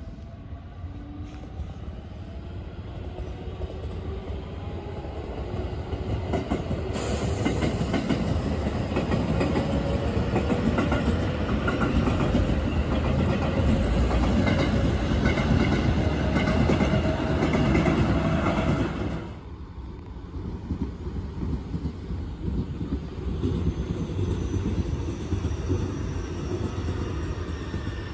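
Electric commuter trains (JR Central 211 and 313 series) running past on the line. A whine rises in pitch early on, then the loud rush and rattle of wheels on the rails builds and breaks off suddenly about two-thirds of the way through, and another train runs by near the end.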